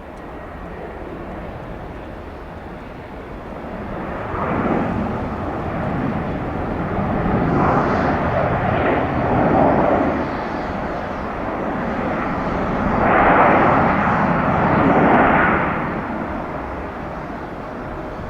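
Jet engines of a landing Airbus A321-200 airliner: a steady rush of engine noise that builds a few seconds in, swells louder twice and then fades away.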